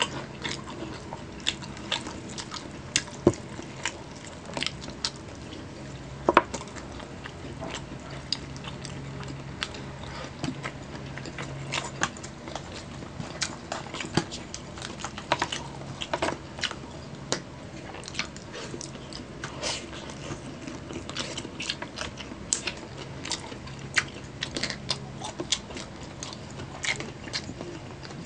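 Close-miked chewing and mouth noises of people eating roast chicken and rice, as irregular wet smacks and sharp clicks, with occasional taps of a plastic spoon and clear plastic food trays.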